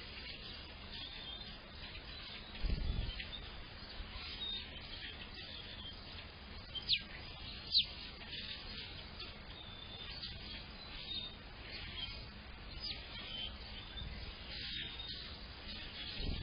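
Several small songbirds chirping and singing together, with two sharp, high notes sweeping downward about seven and eight seconds in. A brief low rumble comes near three seconds in.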